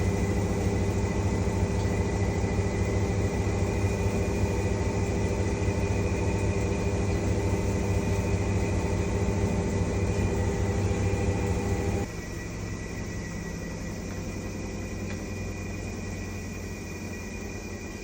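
Washing machine on its spin cycle: the drum spinning with a steady motor hum and whine, which cuts off abruptly about twelve seconds in, leaving a quieter steady hum.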